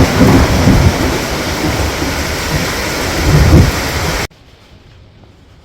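Torrential rain pouring down as a loud, even hiss, with low rumbles of thunder at the start and again about three and a half seconds in. It cuts off abruptly after about four seconds, leaving quiet room tone.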